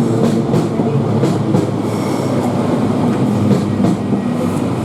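Northern Class 331 electric multiple unit running past, its wheels clicking over rail joints in pairs, under a steady low hum.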